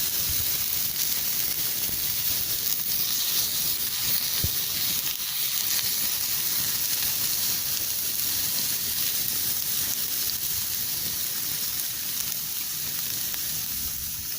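Horumon (offal) frying on a steel checker-plate griddle over a campfire: a steady sizzling hiss with an occasional faint pop.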